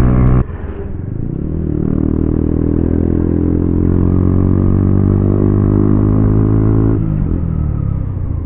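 Motorcycle engine under way, heard from the rider's seat. The note drops abruptly less than a second in, climbs as the bike picks up speed, holds steady, then falls away near the end.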